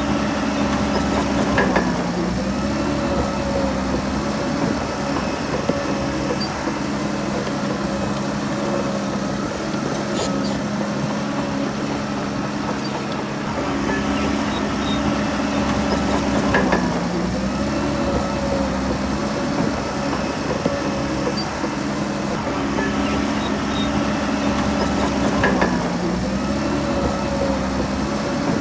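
Bulldozer's diesel engine running steadily at working revs. Its pitch dips briefly three times: about two seconds in, midway, and near the end.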